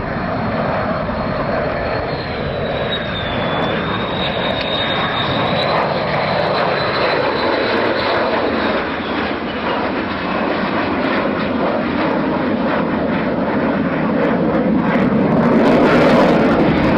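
Aircraft engine noise from a fixed-wing aircraft: a loud, steady rushing with a thin high whine over it, growing louder near the end.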